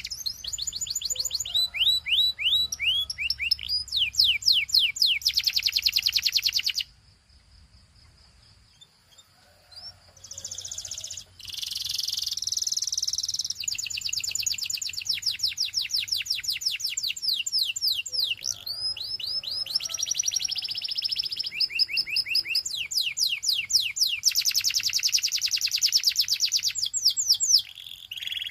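Canary singing: fast runs of repeated notes and trills, some as quick falling slurs. It breaks off about seven seconds in and starts again a few seconds later.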